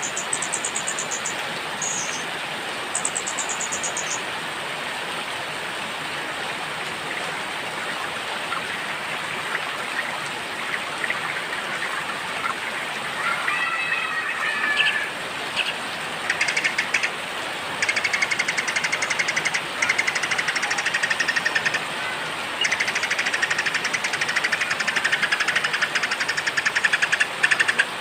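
Steady hiss of rain with small songbirds singing over it: a few very high, rapid trills at the start, a short chirping phrase about halfway through, then fast trills repeating almost continuously through the second half.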